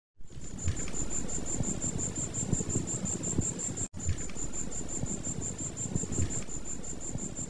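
Crickets chirping in a fast, even pulse, about five or six chirps a second, over a low rumbling background. The sound cuts out for an instant about four seconds in, then carries on the same way.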